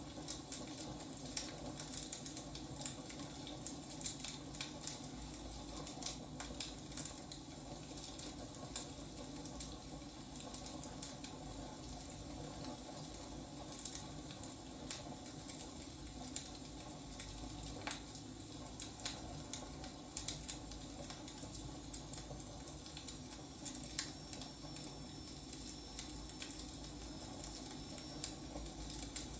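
Wood fire burning: a steady soft hiss with irregular sharp crackles and pops from the burning firewood.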